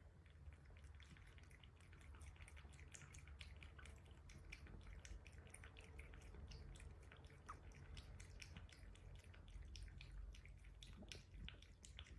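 A cat eating: faint, rapid, irregular wet mouth clicks and smacks over a low steady hum.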